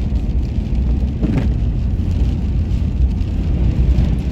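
Car driving through a windstorm: a steady low rumble of wind buffeting and road noise.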